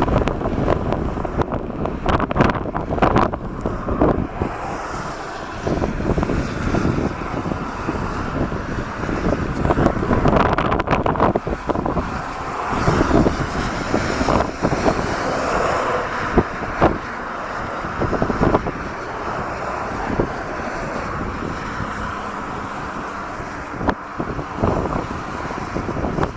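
Storm-force wind gusting over the microphone with crackling buffets, over the low rumble of a jet airliner's engines on approach; the rushing swells for several seconds near the middle.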